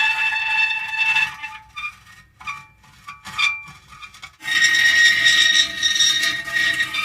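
Metal creaking: drawn-out, high-pitched squealing creaks. They break off about a second in to a few short, faint squeaks, then resume densely and sustained after about four and a half seconds.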